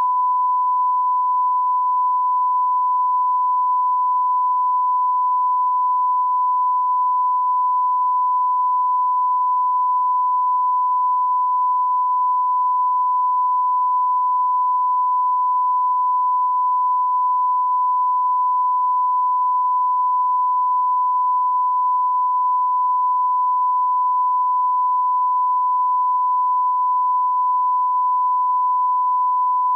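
Steady 1 kHz line-up tone, the continuous pure test tone that goes with broadcast colour bars, held at one pitch and level without a break.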